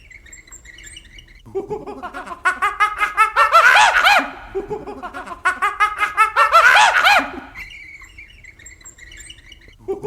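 Animal calls: two bursts of fast, pulsed cries rising and falling in pitch, about a second and a half in and again about five and a half seconds in, with birds chirping faintly in between.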